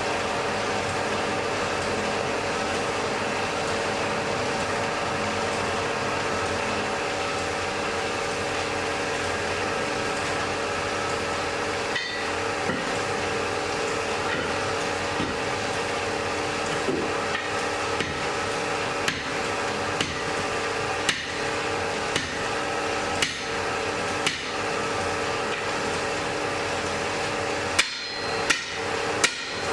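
Blacksmith's hammer striking on an anvil over the steady rushing hum of a forge fire. The blows start about twelve seconds in at roughly one a second, and near the end come faster and louder with a clear metallic ring.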